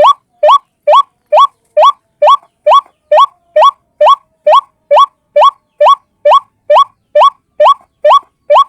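A white-breasted waterhen's call, played as a bird-trapping lure recording. It is one short rising note repeated very evenly, about two and a half times a second.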